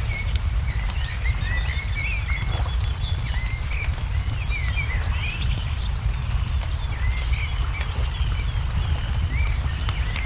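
Wood fire crackling with scattered sharp pops, under a busy chorus of small songbirds chirping, over a steady low rumble.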